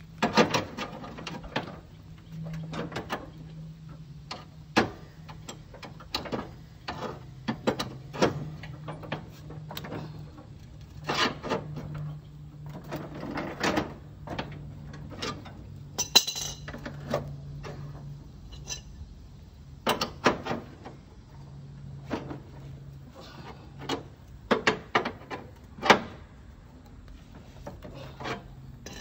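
Hand-tool work on a lawn mower deck: irregular knocks, clanks and scraping of metal parts and tools, with a ringing metallic clink about halfway through, over a steady low hum.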